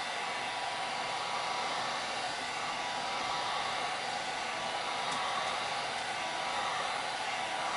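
Handheld electric heat gun blowing steadily, an even airy hiss with a faint whine, as it warms wax rubbed into an EVA foam rod grip.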